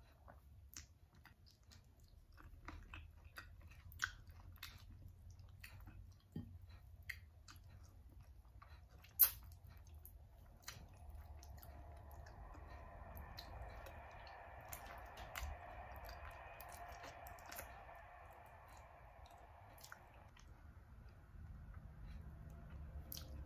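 Close-up mouth sounds of a person eating chicken feet cooked in coconut milk: chewing, sucking the skin and meat off the small bones, and many sharp wet clicks and smacks, the loudest about nine seconds in.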